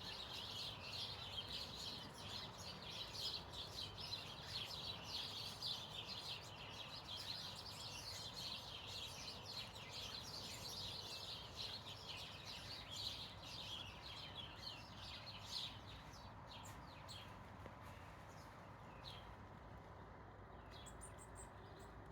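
Garden birds singing, many high chirps and twitters overlapping, busy for about the first fifteen seconds and then thinning to scattered chirps. Faint, over a steady background hiss.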